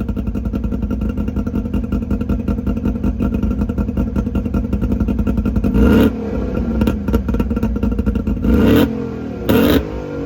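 Suzuki Jimny SJ30's two-stroke three-cylinder engine, breathing through an Apio expansion chamber and the stock muffler, idling with a fast, even pulsing beat. It is then revved in three short throttle blips, one about six seconds in and two close together near the end.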